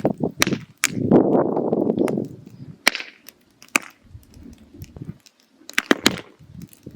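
Firewood burning in a mangal, crackling with sharp, irregular pops and snaps. Stretches of low rushing noise come and go between them, the loudest about a second in.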